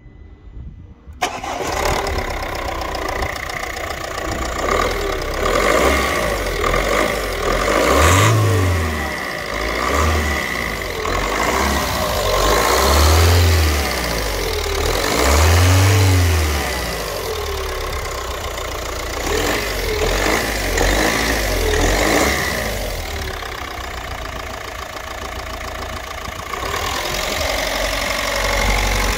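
Ford Focus 1.5 TDCi diesel engine (code ZTDA) starting about a second in, then running and being revved several times, each rev rising and falling in pitch before it settles back to idle.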